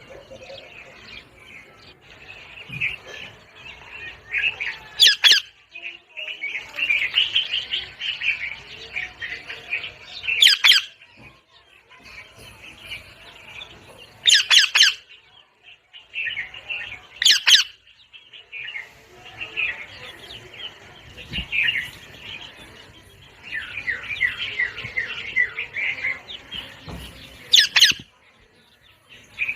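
A parrot chattering continuously, with about five short, loud, shrill squawks spaced through it.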